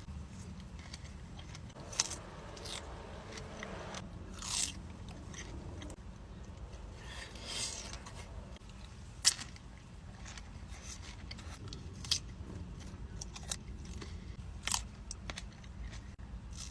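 Close-miked biting and chewing of juicy fresh fruit, with scattered wet smacks and clicks at irregular intervals. The sharpest come about two seconds and nine seconds in, over a steady low hum.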